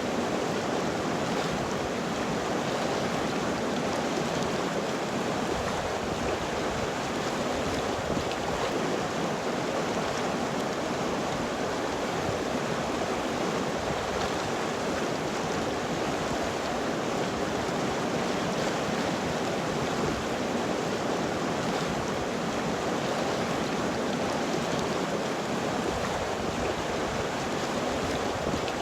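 River water flowing steadily over rocks, an even rushing without breaks.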